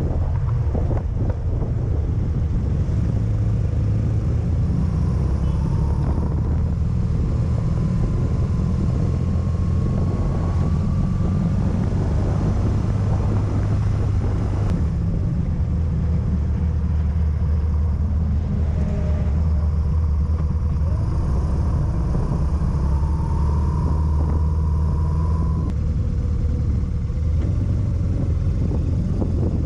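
Motorcycle engine running steadily while riding, with a constant low engine hum and road and wind noise. A faint higher whine rises twice.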